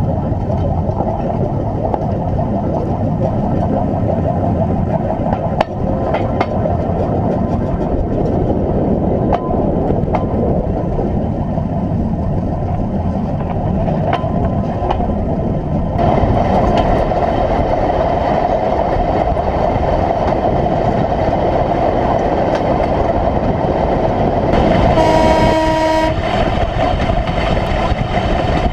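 1957 Series I Land Rover running along a railway line on flanged steel wheels: a steady engine and wheel rumble with occasional sharp clicks. A horn sounds once for about a second and a half near the end.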